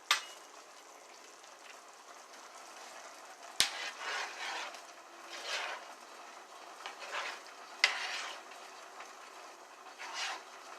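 A utensil stirring and scraping food in a pan over a faint steady sizzle, with three sharp knocks of the utensil against the pan, at the start, about a third of the way in and about three quarters of the way in.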